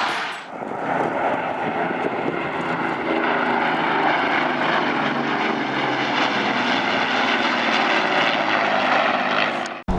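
A fixed-wing airplane's engine droning steadily. It comes in about half a second in and cuts off abruptly just before the end.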